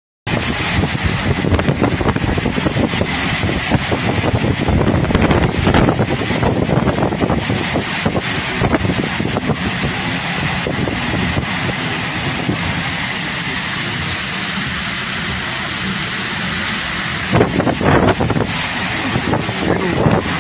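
Strong storm wind blowing hard, buffeting the microphone with a loud, steady rush. It starts abruptly just after the beginning and gusts a little harder near the end.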